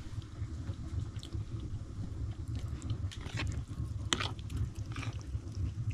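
A person chewing soft cooked pumpkin, with a few sharp wet mouth clicks in the second half, over a steady low rumble.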